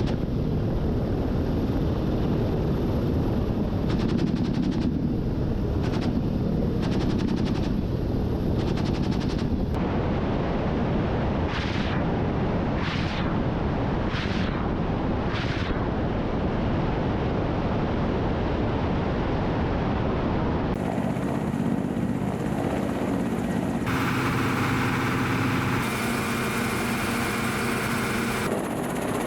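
Attack helicopter running loudly, with bursts of rapid weapon fire in the first ten seconds, then four separate shots about a second apart. The sound changes about two-thirds of the way through, with steady engine and rotor tones.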